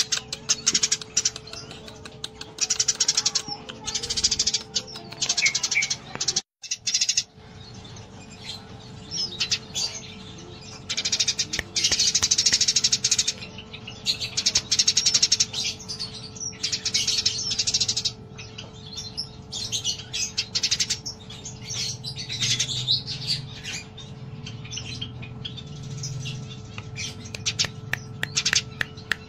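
Eurasian tree sparrows (burung gereja) chattering in fast, dense bursts of chirps, the excited fighting call keepers call 'tarung'. A faint steady hum runs underneath, and the sound cuts out for a moment about six and a half seconds in.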